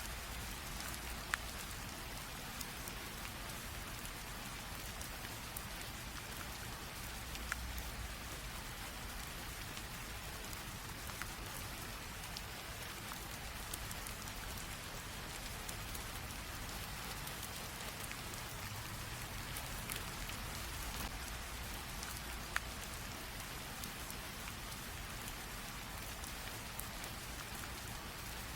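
Light rain falling steadily, a soft even hiss with scattered individual drops ticking now and then.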